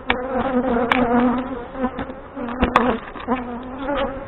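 Honey bees buzzing close around the open hive, a wavering hum that swells and fades as bees pass by, from a colony riled up by the inspection. A few sharp clicks cut through it.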